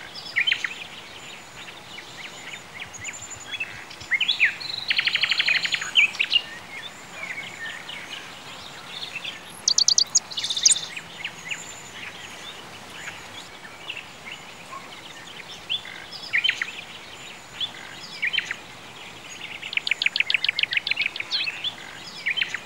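Birdsong from several birds, with scattered chirps and quick fast trills, over a steady background hiss. Two longer rapid trills stand out, one about a fifth of the way in and one near the end.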